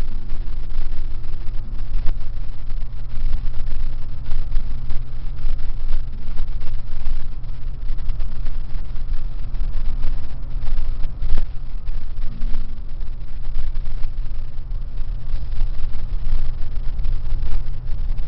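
Loud, steady rumble of a running vehicle, with a constant low hum and irregular buffeting.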